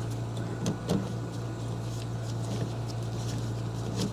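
A steady low hum with a few faint clicks and knocks of tools and fittings being handled, about a second in and again near the end.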